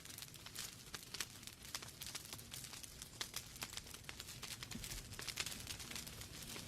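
Wood fire burning in a fireplace: logs crackling with many small, irregular snaps and pops over a soft hiss and low rumble of the flames.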